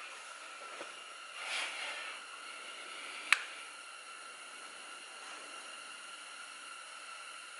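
Steady faint hiss with a brief rustle about one and a half seconds in and a single sharp click a little past three seconds in.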